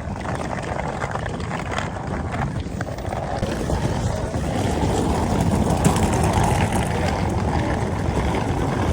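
A ferry's engines rumbling steadily as it comes into port, growing louder about halfway through.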